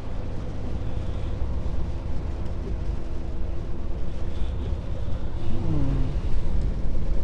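Scania S500 truck driving at highway speed, heard from inside the cab: a steady low engine drone mixed with road and tyre noise.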